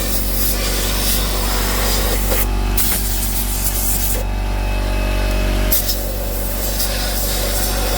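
Compressed air blasting through the works of a Singer 111W sewing machine to blow out rinse water and old gunk: a loud, steady hiss that eases twice for a moment.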